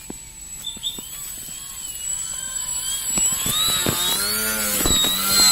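Whine of an RC foam model plane's electric motor and propeller, wavering in pitch and growing steadily louder as the plane approaches.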